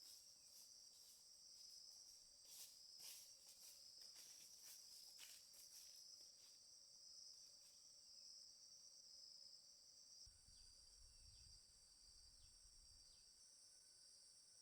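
Faint, steady high-pitched chorus of crickets or other insects, with scattered clicks and rustles in the first half and a brief low rumble after about ten seconds.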